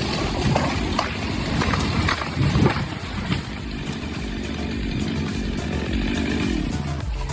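An engine running steadily, with several knocks and clatters in the first few seconds.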